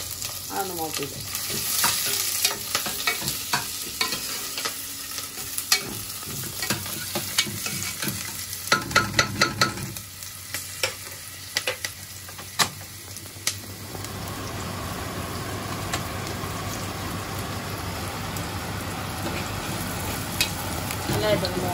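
Ginger, garlic, green chillies and whole spices frying in hot oil in an aluminium pressure cooker pan, sputtering with many sharp pops and clicks. After about 14 seconds it settles into a steadier sizzle, and a spatula stirs near the end.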